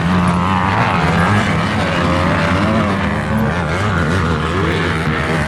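Motocross bike engines running hard during a 250-class race, their pitch rising and falling as the riders work the throttle, over a steadier low engine hum.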